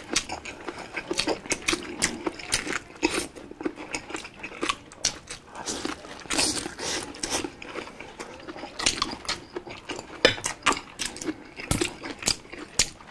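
Close-miked chewing and lip-smacking of two people eating boiled cabbage leaves: a dense, irregular run of wet mouth clicks and smacks.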